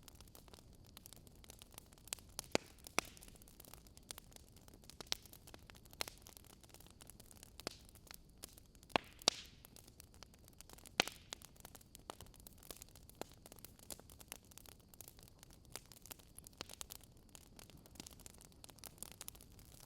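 Wood fire crackling: irregular sharp pops and snaps, a couple of louder ones about halfway through, over a faint steady hiss.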